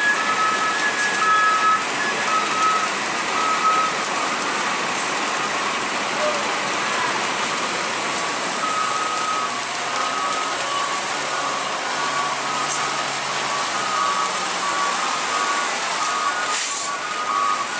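A truck's reversing alarm beeping in short, evenly spaced tones over a steady wash of rain and road noise, with a brief hiss near the end.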